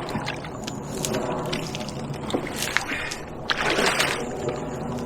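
Water sloshing and mud squelching with scattered knocks and clicks, with a louder splashy rush about three and a half seconds in.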